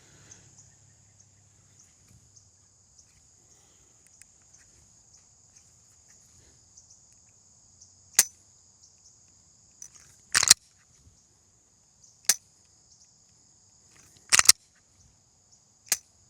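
Five sharp gunshot reports, one every two seconds or so, starting about eight seconds in. Under them runs a steady high insect buzz.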